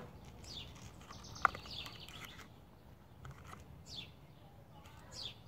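A bird chirping outdoors in short, high, downward-sliding calls, several times. There is one sharp click about a second and a half in from the clear plastic lure package being handled.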